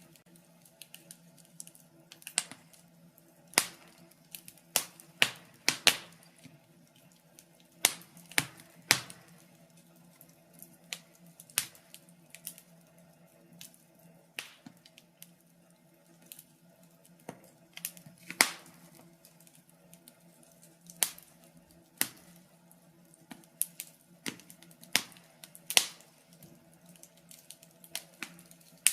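Wood fire crackling in a fireplace, with sharp irregular pops about once a second over a faint low hum.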